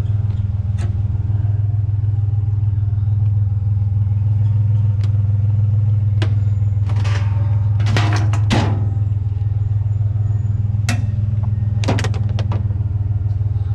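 A vehicle engine running with a steady low drone, with scattered knocks and a short burst of clatter about halfway through.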